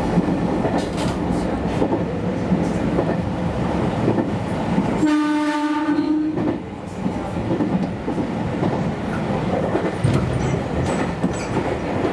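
JR Kyushu YC1 series hybrid railcar running, its wheels rattling steadily over the track. About five seconds in, the train's horn sounds once for about a second and a half.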